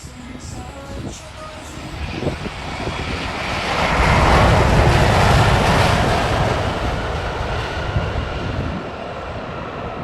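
Airliner engines passing close by: the noise swells over a few seconds, peaks around the middle, then fades.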